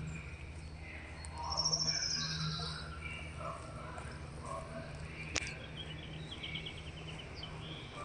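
Birds singing over a steady low hum: a fast, high trill about a second and a half in, and a lower, falling trill of chirps near the end, with a single sharp click just past the middle.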